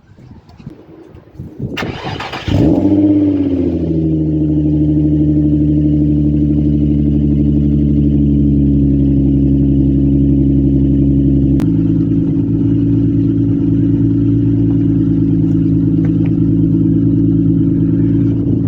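Nissan 350Z's VQ35DE V6 cold-starting through Motordyne ART pipes and an XYZ Y-pipe with a straight pipe in place of the catalytic converter. The starter cranks briefly about two seconds in, the engine catches with a quick flare in revs and settles into a steady fast cold idle. The idle note steps down a little about twelve seconds in.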